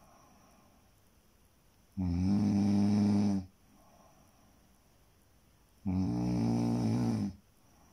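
Snoring: two long, droning snores about four seconds apart, each lasting about a second and a half, with quiet breathing between them.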